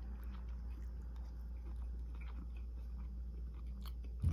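Faint eating sounds: scattered small clicks and wet chewing noises as seafood is eaten, over a steady low hum, with one soft thump near the end.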